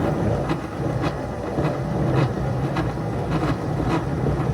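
Locomotives straining against deep snow with their driving wheels slipping: a steady drive hum with a faint click repeating a little under twice a second.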